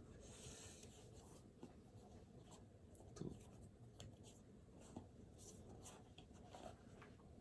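Faint scratching of writing on paper, in short irregular strokes with a few light taps.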